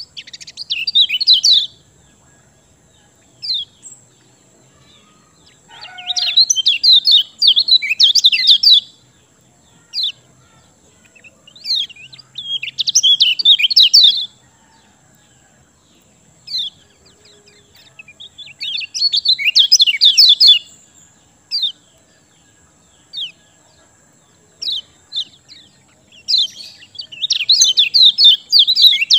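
A kecial kuning singing: bursts of rapid, high chirping song lasting two or three seconds, coming about every six seconds, with single short chirps in between.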